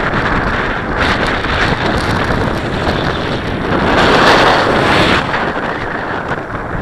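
Strong gusting wind buffeting the microphone, a dense rumble and rush that swells to its loudest about four seconds in, then eases.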